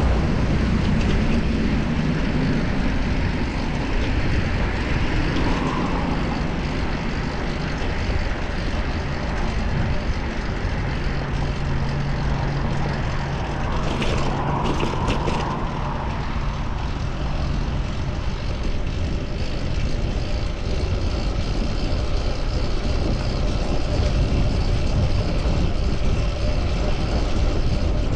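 Steady rush of wind and road noise on the microphone of a moving bicycle, with motor-vehicle traffic running alongside. A short cluster of sharp clicks comes about halfway through.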